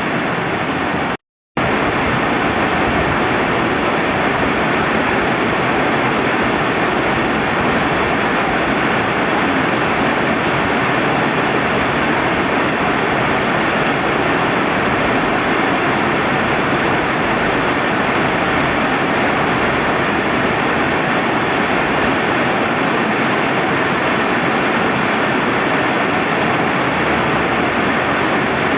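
Steady rain with running river water, an even hiss with no breaks except one split-second cut to silence about a second in.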